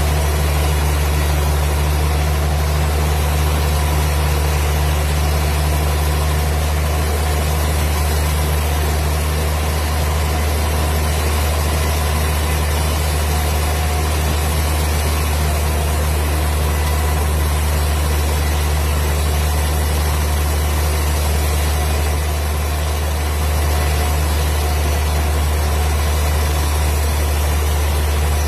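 Wood-cutting machine running steadily with a deep, even hum and no distinct cutting strokes; the level dips briefly about 22 seconds in.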